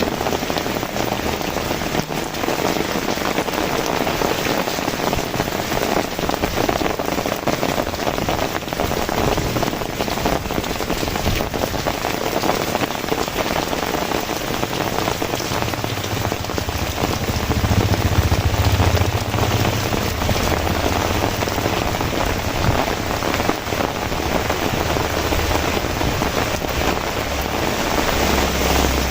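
Heavy rain falling and pattering densely on surfaces close to the microphone. A low rumble swells in under it about sixteen seconds in and again near the end.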